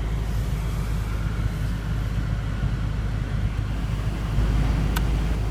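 Steady low rumble of a BMW M5 F10's twin-turbo V8 idling, heard from inside the cabin, with a light click near the end.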